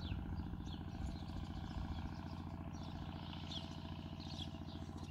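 Small birds chirping in short, repeated down-sliding calls over the steady low hum of an engine running at an even speed.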